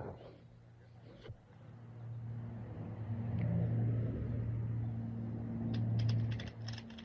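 A low, steady engine-like hum that grows louder from about two seconds in and drops away near the end, with light clicking near the end.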